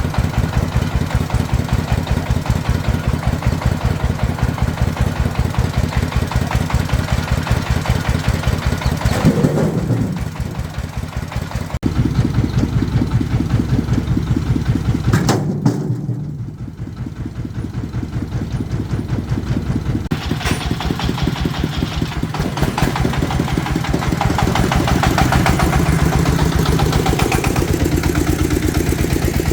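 Single-cylinder diesel engine of a công nông farm truck running with a rapid, regular chug. It eases off and picks up again twice, about ten and sixteen seconds in.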